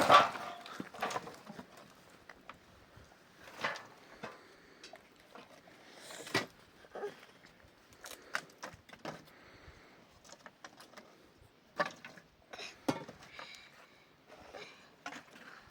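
Scattered light knocks and clicks at irregular intervals, as of objects being handled, over a quiet background.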